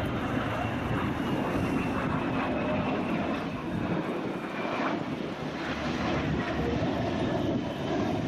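Aircraft engine running steadily, a dense rush with a faint high whine drifting slightly lower.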